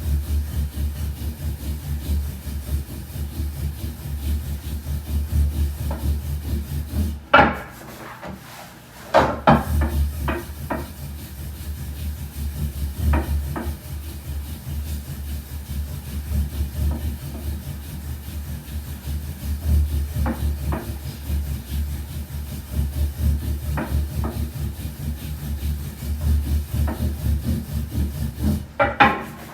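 Wooden rolling pin rolling out soba dough on a wooden board: a steady, rapid low rumble of wood rubbing over dough and board. It breaks off for a moment about seven seconds in, where the pin knocks sharply against the board a couple of times, then the rolling resumes.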